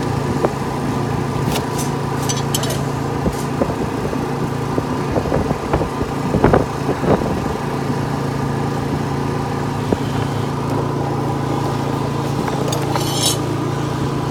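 An engine running steadily, with scattered knocks and a short metallic rattle near the end.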